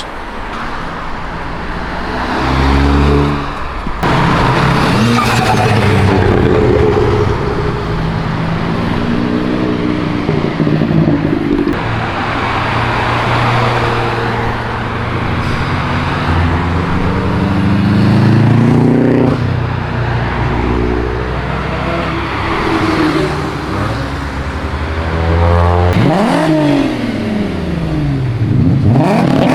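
Several cars driving past one after another, their engines accelerating and revving, with the pitch rising and then falling again as each goes by.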